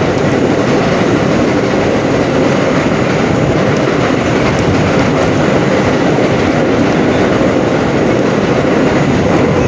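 An R32 subway car in motion, heard from inside: a loud, steady rumble of wheels and running gear on the track.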